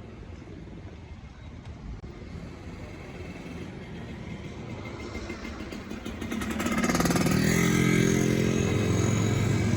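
A motor vehicle engine approaching, growing louder over several seconds, then running loud and close from about seven seconds in.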